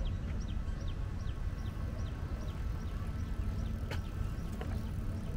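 A bird calls over and over in short falling notes, about three a second, over a steady low rumble. A single sharp click comes about four seconds in.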